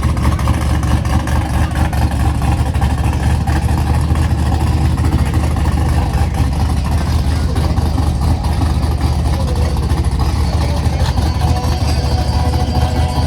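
A large vehicle engine running loudly and steadily with a deep, even rumble, close by.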